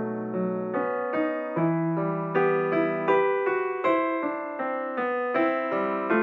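Background music: a piano (or electric piano) playing a gentle melody of notes struck about twice a second, each ringing and fading.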